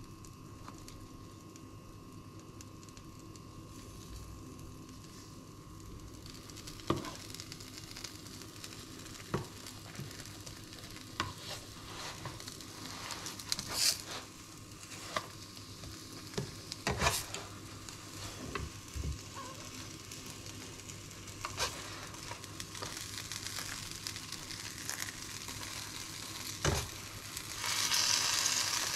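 Egg-coated tortilla frying in a nonstick pan with a steady sizzle, while a spatula knocks and scrapes against the pan as the wrap is folded and rolled. The sizzle grows louder near the end.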